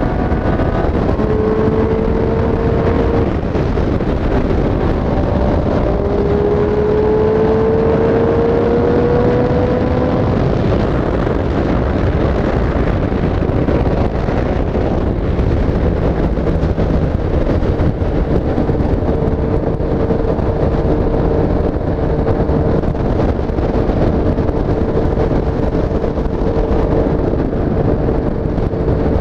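Triumph Street Triple S 765 cc inline three-cylinder motorcycle engine under way. It climbs in pitch twice under acceleration in the first ten seconds, then settles to a steady cruise, with wind rush on the microphone throughout.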